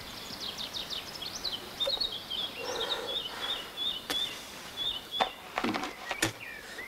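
A songbird singing a long run of quick, high chirps and short trills over a steady outdoor hiss. A few sharp clicks come near the end.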